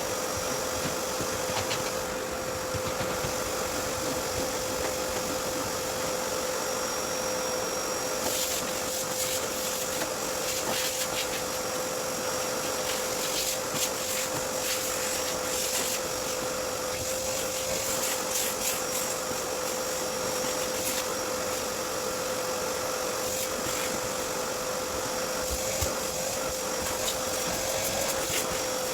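Vacuum cleaner running steadily with a constant motor whine, switched on just before; scattered clicks and rattles, most often about a third of the way in, as the nozzle works over the car.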